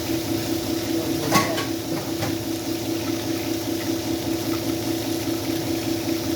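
A steady mechanical hum, like a small motor or fan, pulsing about five times a second, with one sharp clink about a second and a half in.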